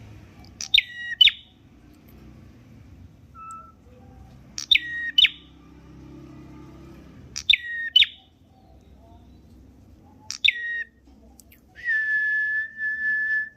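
A prenjak merah songbird calling with sharp, high, downward-sweeping notes, mostly in pairs, about every three seconds. Near the end it gives one longer, steady whistled note.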